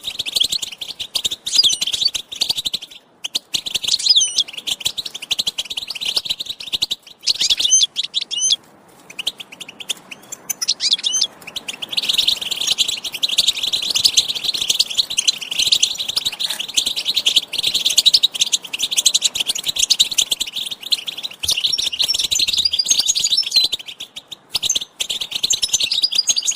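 European goldfinches in a busy chorus of rapid chirping and twittering song, the excited calls goldfinch keepers use to stir a male to sing. The calling thins with short breaks in the first half and grows dense and continuous after about twelve seconds.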